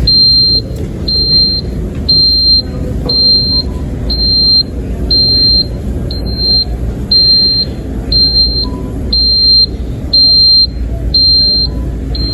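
A high-pitched electronic beep repeating about once a second, over a steady low rumble.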